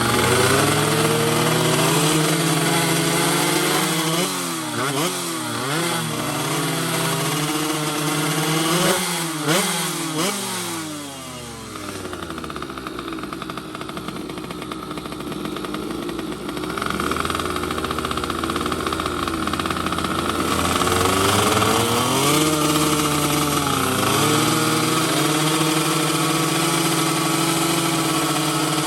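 Two-stroke underbone racing motorcycles revving, the engine pitch rising and falling again and again, with more than one engine sounding at once. The sound settles lower and steadier about twelve seconds in, and the revving picks up again after about twenty-two seconds.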